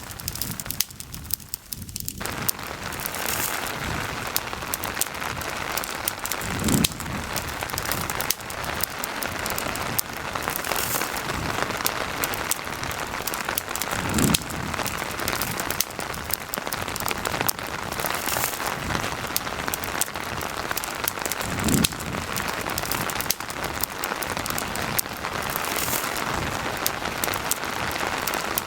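Steady rain hiss mixed with a crackling campfire, with sharp pops scattered throughout. A soft low thud comes back about every seven and a half seconds.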